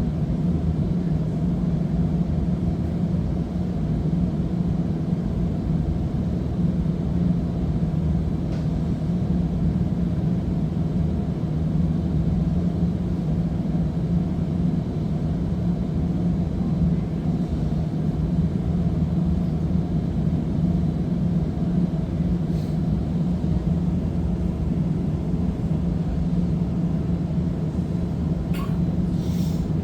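Interior noise of a Seattle First Hill streetcar in motion: a steady rumble of wheels on rail with a low hum, and a few faint clicks near the end.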